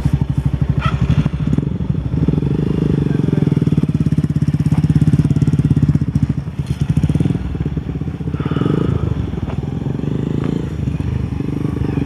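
Motorbike engine running steadily, with a rapid, even firing beat. A few light clicks and rattles sound over it.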